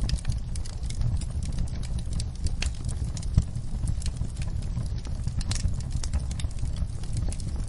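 Campfire burning, the wood crackling with irregular sharp pops over a low steady rumble of flame. One pop about halfway through stands out louder than the rest.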